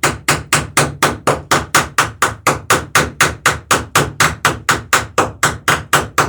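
Hammer rapidly striking a rivet on a wooden dory's sheer strake, with a bucking iron held against the other side. The blows are sharp, even and fast, about four a second, without a pause.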